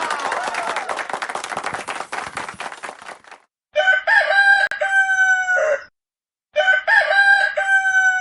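A rooster crowing twice, each crow a long, held call of about two seconds with a short silence between. Before the first crow, a roar from the previous sound fades out over the first three seconds.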